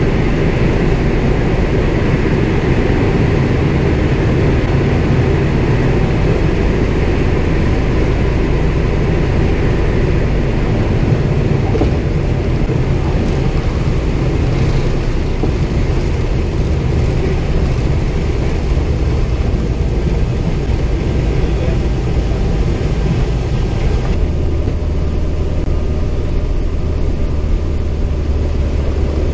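CAC Winjeel's Pratt & Whitney R-985 radial engine heard from inside the cockpit, running steadily with a dense low rumble. About 24 seconds in the sound changes suddenly, losing much of its upper range and settling into a steadier, lower hum.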